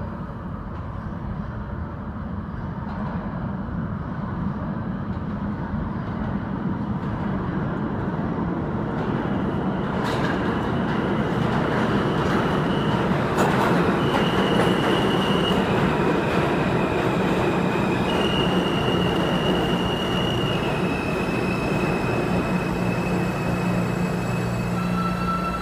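R160A subway train pulling into a station, its rumble building steadily louder. From about nine seconds in, high steady whines shift in pitch every second or two as the train slows.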